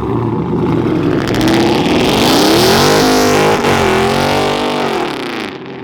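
Car engine revving hard as a car accelerates away, its pitch climbing with a brief dip about three and a half seconds in, then falling and fading as it drives off.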